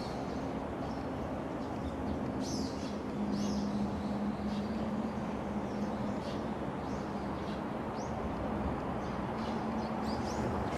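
Small birds chirping, short calls repeated at irregular intervals, over a steady low hum and background rumble.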